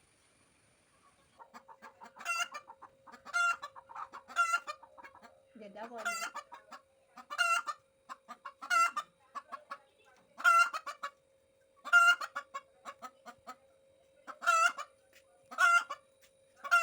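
Hens clucking: a run of loud calls repeated about once a second, with quicker soft clucks in between.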